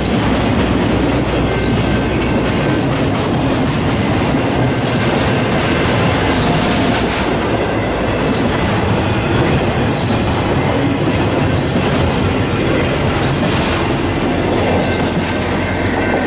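Freight train cars carrying highway trailers on flatcars rolling past on the rails: the steady noise of steel wheels on track, with occasional faint clicks.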